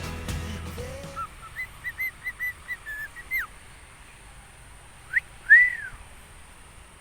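Whistling: a quick run of about eight short, even whistled notes, then a brief rising note and a louder single whistle that rises and falls, about five seconds in. Background music fades out at the start.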